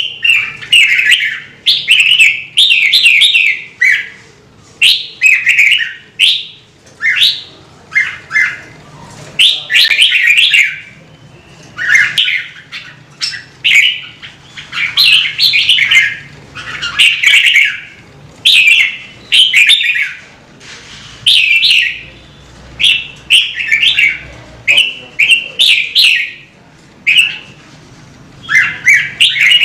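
Red-whiskered bulbul singing: loud, bright warbled phrases, each under a second long, coming one after another with brief pauses.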